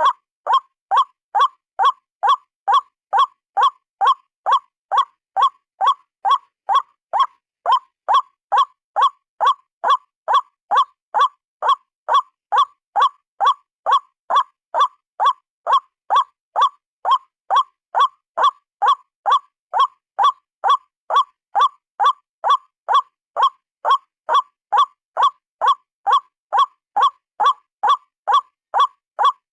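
White-breasted waterhen (ruak-ruak) calling: short, harsh calls repeated evenly, about two a second without a break. It is a lure-call recording used to draw the bird in.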